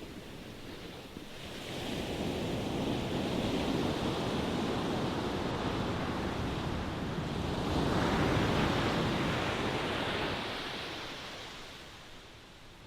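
Ocean waves breaking and washing up: the surf swells about a second and a half in, a second, stronger wave breaks around eight seconds, then the wash draws back and fades near the end.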